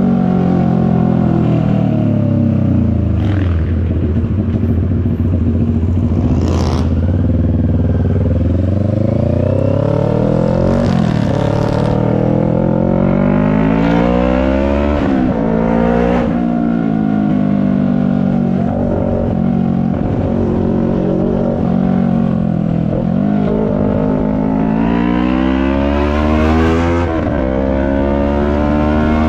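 CFMoto 400NK parallel-twin engine under way, its revs climbing and dropping sharply several times and easing off slowly in between.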